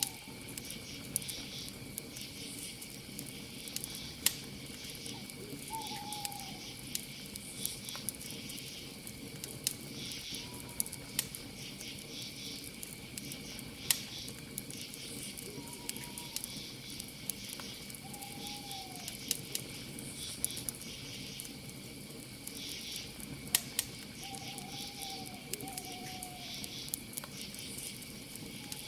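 Campfire crackling with scattered sharp pops over a steady high insect trill like crickets. A night bird gives short falling calls every few seconds.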